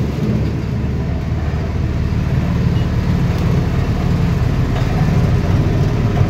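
Small petrol engine running steadily at a constant speed, powering a sugarcane juice machine.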